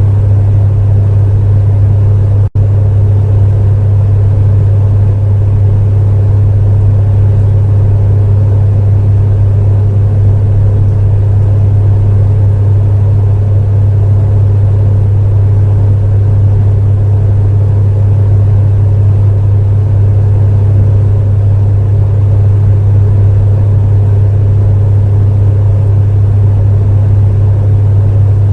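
Space heater running steadily: a loud, even low hum with a fainter hiss above it. The sound drops out for a split second about two and a half seconds in, an audio glitch in the recording.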